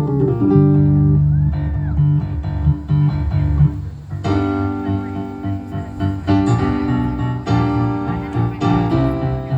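Keyboard played with sustained chords. Low notes are held for the first few seconds, then about four seconds in brighter chords come in, struck roughly once a second.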